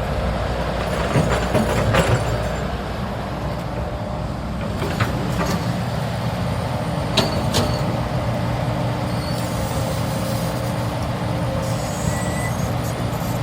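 Hydraulic excavator's diesel engine running steadily, with a few sharp metallic clanks, two of them close together about seven seconds in.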